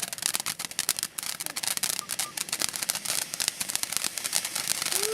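Fireworks crackling: a dense, fast stream of sharp little pops.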